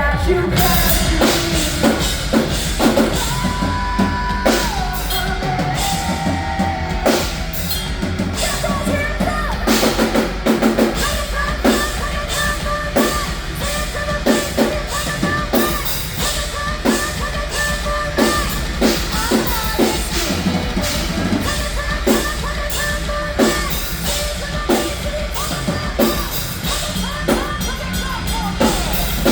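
Live rock band playing, with a drum kit keeping a steady, driving beat under bass and sustained melodic lines.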